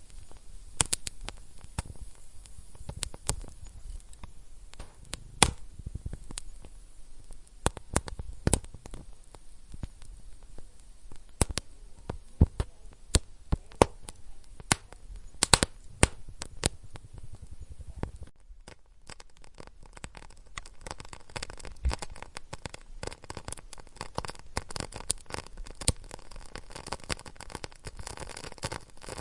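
Wood fire in a fireplace crackling, with irregular sharp pops and snaps. About 18 s in the sound changes abruptly to a denser, finer crackle with fewer loud pops.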